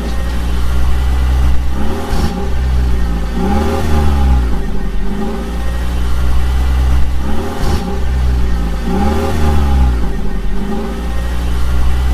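Vehicle engine sound revving, its pitch rising and falling in a repeating cycle every couple of seconds over a steady low drone.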